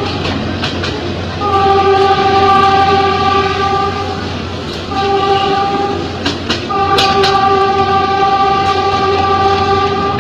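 An ex-JR 203 series EMU running on rail, its motor control putting out a steady multi-pitched electric hum over the rumble of the wheels. The hum cuts out and comes back three times, and a few sharp clicks from the rail joints fall near the middle.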